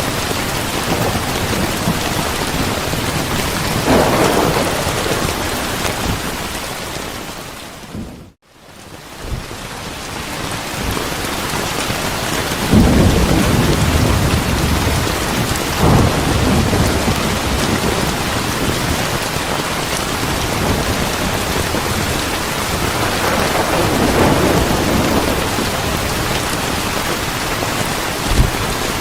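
Steady heavy rain with rolling thunder rumbles swelling several times, the biggest about 13 seconds in. About eight seconds in the whole sound briefly fades almost out and swells back.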